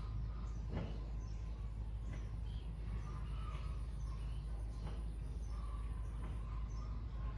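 Small birds chirping now and then in short high notes over a steady low rumble and a steady high-pitched whine, with a few soft clicks.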